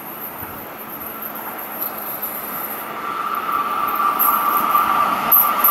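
FS Class E.656 electric locomotive hauling an Intercity night train on approach, its rail noise growing steadily louder. A high steady whine comes in about three seconds in and strengthens.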